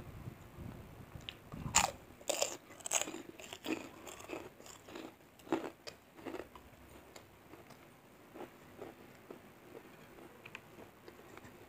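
Close-up mouth sounds of biting and chewing a crisp fried cracker, most likely kerupuk jangek (puffed beef-skin cracker). A run of loud, sharp crunches comes in the first half or so, then quieter chewing with light crackles.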